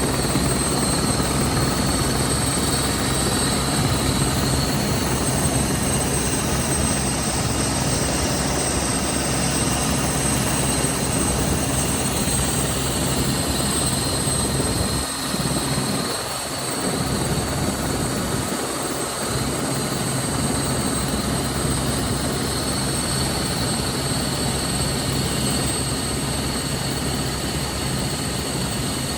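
Helicopter running steadily: rotor noise with a constant high turbine whine. The level dips briefly about halfway through.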